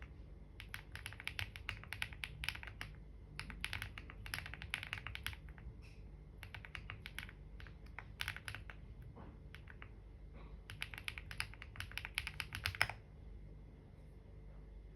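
Typing on a computer keyboard in several quick bursts of key clicks with short pauses between. The typing stops with one louder keystroke about two seconds before the end.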